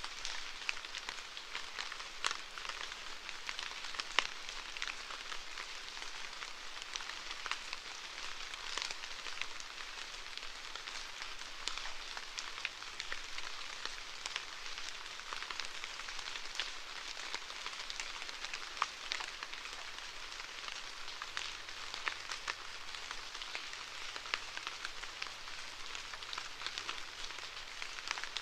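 Steady rain falling: an even hiss with many separate sharp drop ticks.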